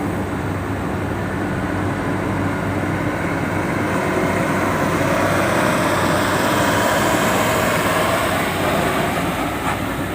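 A vehicle driving past, its engine and road noise growing louder to a peak about seven seconds in and then easing off, over a steady low hum.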